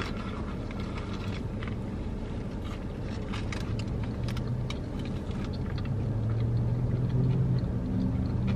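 Close-up chewing of a bite of toasted sub sandwich: small crunches and mouth clicks over the steady low hum of a car idling.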